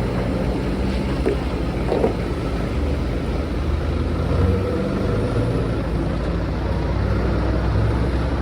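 Heavy truck engine running close by, its low note shifting a few times.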